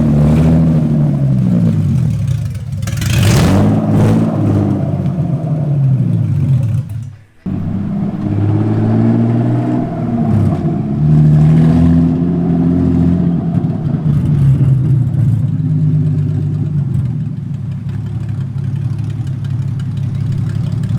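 Car engine running and being revved, the pitch rising and falling repeatedly, with a sudden brief drop-out about seven seconds in before the engine sound resumes with more blips of the throttle.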